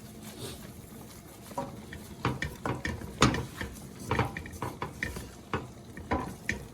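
A utensil scraping and clinking against a pan while flour is stirred into a roux on low heat, in irregular strokes that start about a second and a half in.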